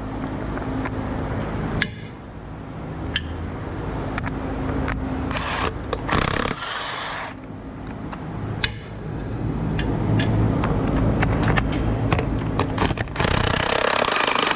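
Hand tools and metal parts scraping and clinking during work on the car's suspension, with scattered sharp clicks and a couple of short, loud stretches of noisy tool sound over a steady low hum.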